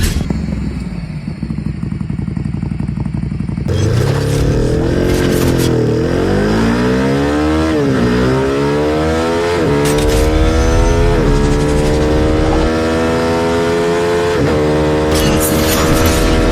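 Ducati motorcycle engine accelerating hard through the gears. The pitch climbs, then drops sharply at each of about six upshifts, after a few seconds of low rumble.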